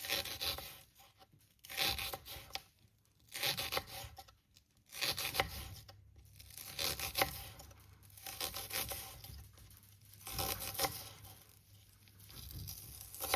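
Repeated tearing with rustling, in a series of strokes about every one and a half seconds.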